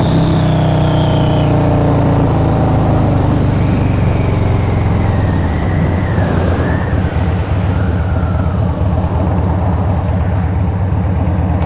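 Harley-Davidson Dyna Low Rider V-twin running steadily as it is ridden, its pitch easing down over the first few seconds.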